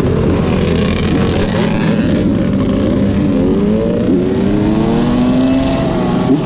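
Motorcycle engine running hard and accelerating, its pitch climbing a few seconds in and then holding higher.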